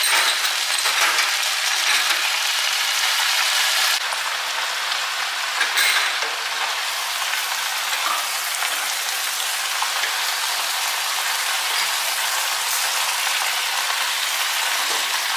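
Cabbage and greens sizzling in a hot pan, a steady frying hiss, while they are stirred and tossed with a plastic spatula and a wooden spatula. A few short clinks and scrapes of the utensils against the pan come through.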